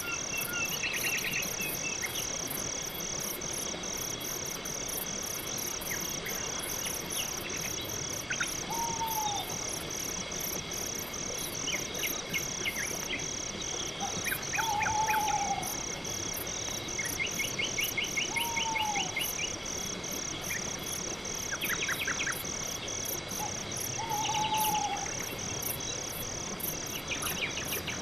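Night-forest chorus of crickets chirping steadily about twice a second, with a higher, faster insect pulsing above it. Other animals give a short falling call every few seconds and scattered brief trills over the top.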